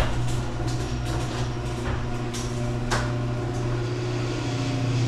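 A steady low mechanical hum at a constant pitch, with a few light clicks about two and a half and three seconds in.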